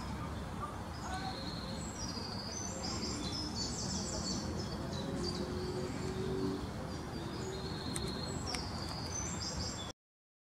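Birds chirping in a long run of short, high notes over steady low background noise, starting about a second in; all sound cuts off just before the end.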